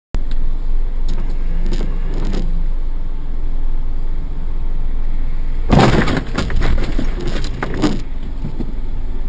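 Road vehicle running with a steady low rumble; about six seconds in, a burst of loud bangs and clatter, with a few more knocks over the next two seconds.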